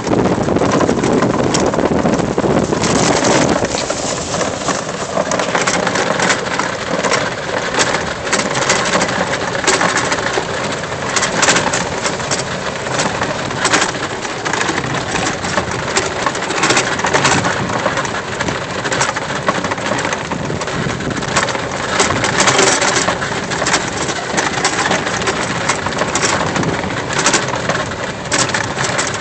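EZGo golf cart driving along a trail: a steady noise of the ride with constant clattering and rattling from loose tools, golf balls and other items bouncing around in the cart.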